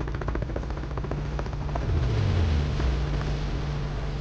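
Helicopter in flight: a steady engine and rotor drone with a rapid rotor chop that thins out about halfway through, and a brief low hum that glides down about two seconds in.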